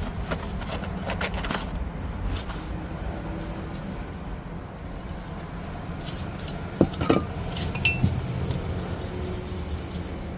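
Small metal starter parts clinking and scraping as they are handled, over a steady low hum.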